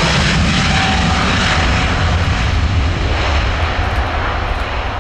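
Jet engines of a Boeing 777 airliner, a loud steady roar that eases gradually near the end as the aircraft moves away.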